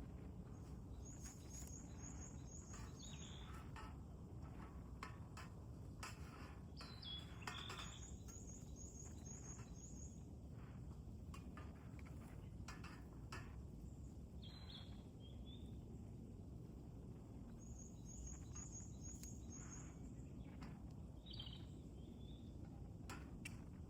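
Faint outdoor birdsong: a bird repeats a quick run of five or six high chirps three times, with a downward-sliding whistle in between. Scattered sharp clicks and a low steady rumble of outdoor ambience run underneath.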